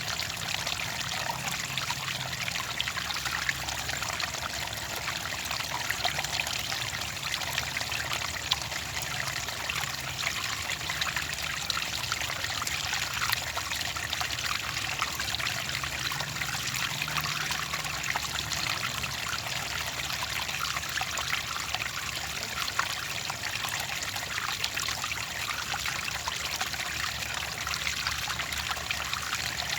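Clear water trickling and splashing steadily, with many small droplet splashes.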